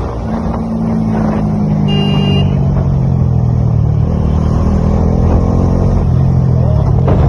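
Motorcycle engine running steadily while riding, with a brief high-pitched beep about two seconds in.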